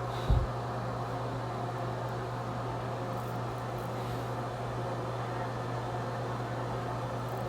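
Steady machine hum over a constant hiss, with one short low thump about a third of a second in.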